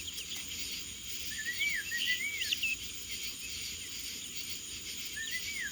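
Steady high-pitched trilling of crickets or other insects, with a bird giving two short runs of rising-and-falling chirps, one about a second in and another near the end.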